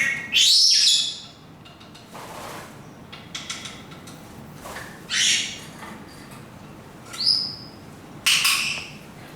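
Senegal parrots calling: a loud, harsh call about half a second in, then three shorter calls later on, one of them a quick rising whistle.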